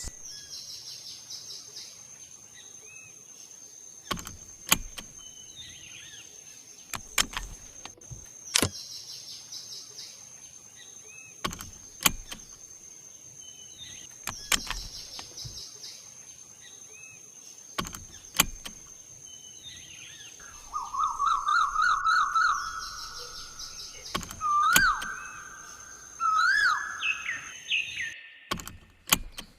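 Birds calling, with a trill and several rising chirps in the second half, over a steady high-pitched whine and a few sharp clicks every couple of seconds.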